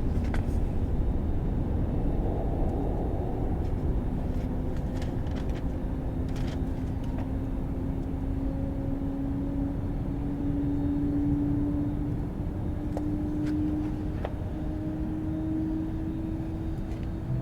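Boeing 737-800's CFM56 jet engines running at takeoff power: a steady low rumble with a whine that slowly rises in pitch.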